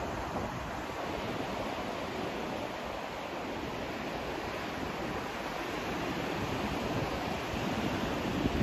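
Steady white-noise sleep track: an even, unbroken rushing hiss with a slight swell in loudness near the end.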